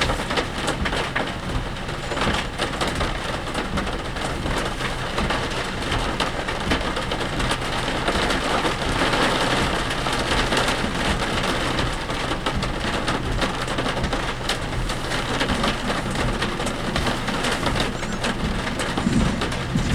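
Heavy typhoon rain pelting a moving work vehicle, heard from inside the cabin as a dense, steady hiss full of fine ticks, over a low hum of engine and road. The rain swells a little about halfway through.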